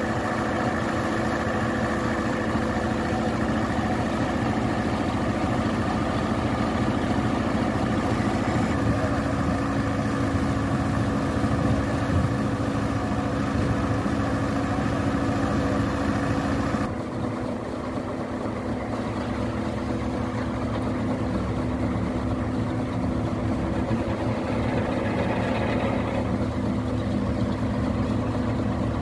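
Heavy diesel construction machinery running steadily with a constant engine hum. The engine pitch steps up slightly about a third of the way in, and the sound changes abruptly a little past halfway.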